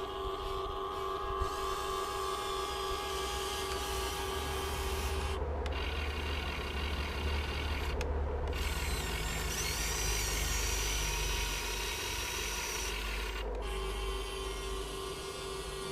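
Electric motors and metal gearing of an all-metal RC excavator running, a steady whine with a gritty gear rasp. The sound shifts about five seconds in, again at eight and near the end as different functions start and stop, and a higher whine holds for a few seconds in the middle.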